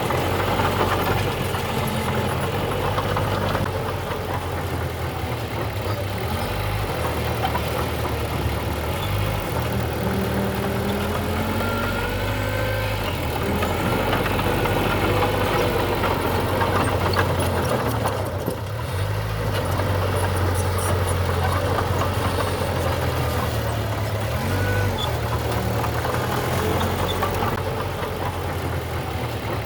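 Diesel engine of heavy earthmoving machinery running steadily, its low note shifting a little now and then.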